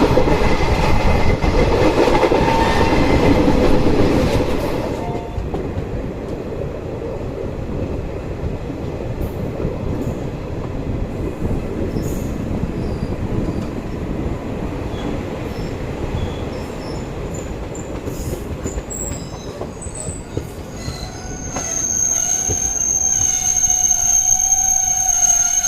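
Passenger train running on the rails, heard from on board: a loud rumble of the coaches that eases after about four seconds. A high, steady squeal comes in near the end.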